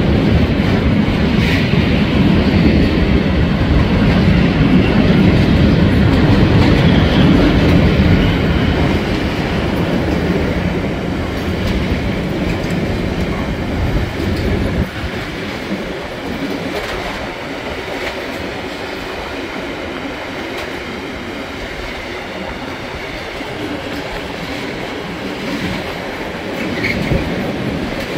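Freight train of open-top wagons rolling past at speed: a steady rumble of wheels on rail, loudest in the first half and noticeably quieter from about halfway through.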